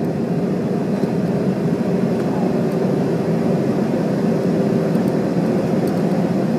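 Steady cabin drone inside an Airbus A321-200 on the ground after landing: the engines running at idle and the air conditioning, with a thin steady hum through the drone.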